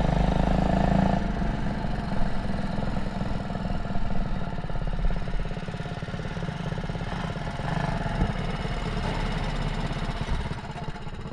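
Small single-cylinder mini bike engine running with a steady rapid firing pulse. It is loudest in the first second and fades toward the end.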